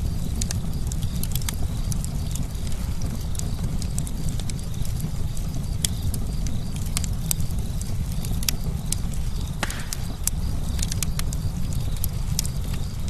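Campfire burning: frequent irregular sharp crackles and pops from the burning wood over a steady low rumble of the flames, with one louder pop about three-quarters of the way through.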